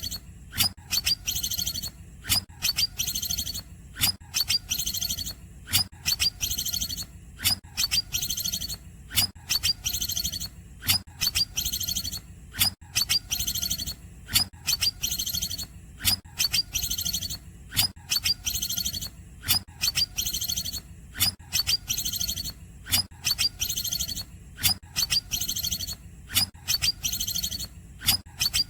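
Green leafbird (cucak ijo) singing a repeated phrase: sharp sweeping notes followed by a high, fast trill, over and over about once a second or so, in the imitated style of the cungkok's call. A faint steady low hum lies underneath.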